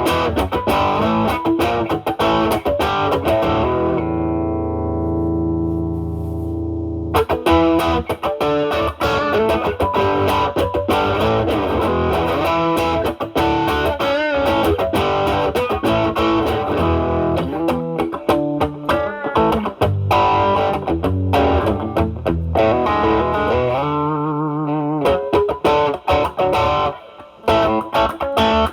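Stratocaster electric guitar played through an Ibanez Tube Screamer Mini overdrive (drive around 9 o'clock) into the drive channel of a Marshall Valvestate amp: distorted picked lead lines, with a chord left ringing for a few seconds about four seconds in and a wavering held note near the end.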